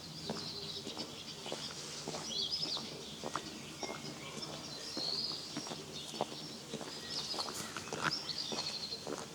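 Songbirds singing: short, quick, warbling phrases repeated several times, over a steady murmur of scattered chirps. Footsteps sound at irregular intervals.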